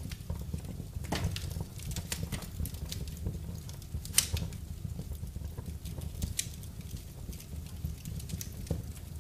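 Wood fire burning in a fireplace: irregular crackles and pops over a steady low rumble, with one sharper pop about four seconds in.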